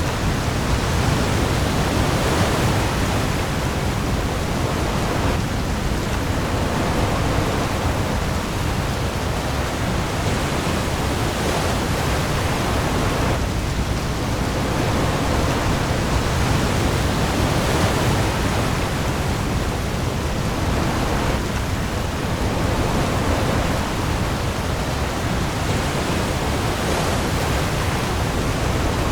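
Heavy rain pouring onto the sea surface in a storm, a dense steady hiss that swells and eases every few seconds like passing waves, over a deep low rumble.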